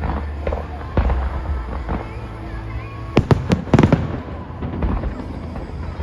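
Aerial fireworks going off, with a steady low rumble of booms and a quick cluster of sharp cracks about three seconds in.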